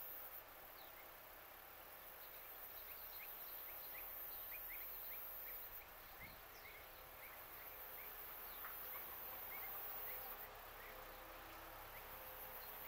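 Faint outdoor background with small birds chirping in short, scattered notes over a steady hiss.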